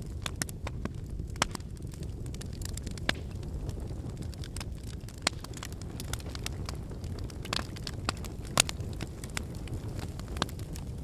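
Wood campfire burning: a steady low rumble of flames with irregular sharp crackles and pops from the burning logs, a few of them louder.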